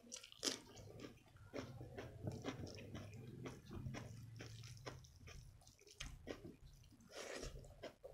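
Close-up eating sounds: a crisp crunch as a slice of raw cucumber is bitten about half a second in, then wet chewing and mouth clicks while rice and palak paneer are eaten by hand. A low hum runs through the middle few seconds.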